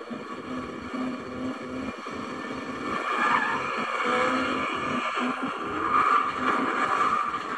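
Drag-racing cars' engines, getting louder about three seconds in.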